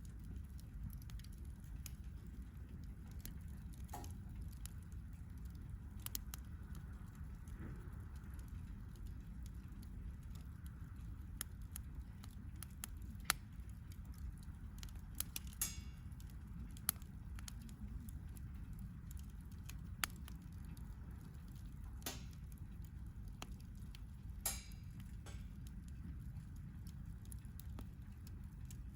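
Wood campfire burning, with irregular sharp crackles and pops scattered through over a low steady rumble.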